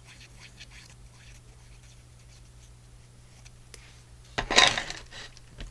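Paper rustling and scraping as small cut paper pieces are handled and positioned on a work surface, with one louder crinkle about four and a half seconds in that lasts under a second.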